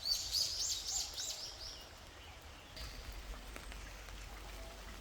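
A songbird singing a quick run of six or seven high, arched notes that stops about two seconds in, over the steady faint patter of rain.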